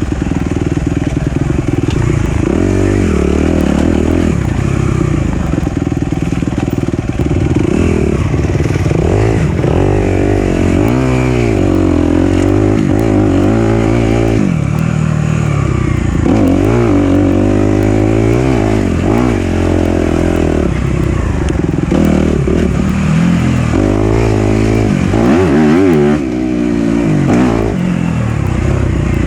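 Four-stroke dirt bike engine running on a trail ride, revving up and falling back again and again as the throttle is opened and closed.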